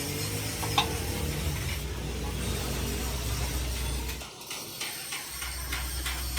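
Steady low machinery hum with mechanical clatter and a sharp click about a second in; the hum drops out briefly a little past four seconds.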